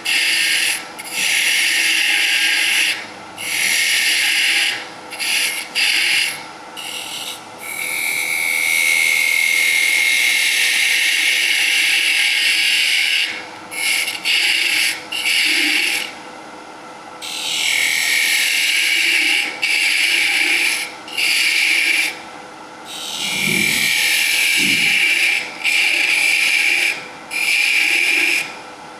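A quarter-inch spindle gouge cutting wood spinning on a wood lathe: a hissing cut in repeated passes, broken by short gaps as the tool lifts off, over the lathe's steady hum. The longest unbroken cut comes a third of the way in and lasts about five seconds.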